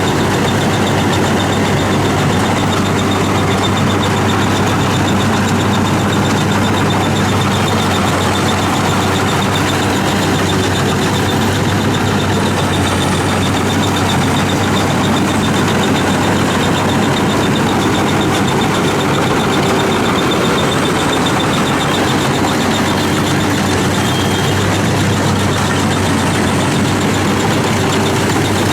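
Rice combine harvester running steadily: a constant, loud engine drone with a low hum that does not change.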